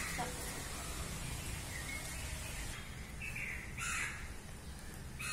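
A few short bird calls, between about two and four seconds in, over a steady low background hum.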